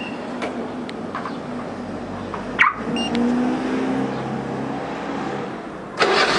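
IZh-2126 Oda car being started remotely by its alarm system: a sharp click with a short beep about two and a half seconds in, then about six seconds in the engine starts and runs with a sudden rise in noise.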